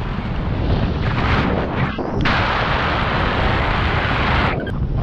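Strong wind buffeting the microphone: a heavy low rumble, with a louder gust of rushing hiss from about two seconds in until near the end.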